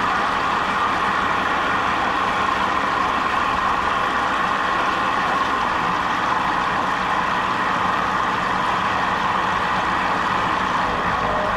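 A jet boat's motor running steadily, an even drone that holds the same level throughout.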